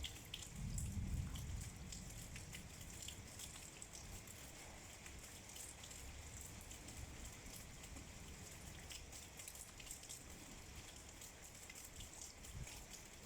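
Heavy rain falling steadily, with many small, close raindrop hits. A brief low rumble comes about half a second to two seconds in.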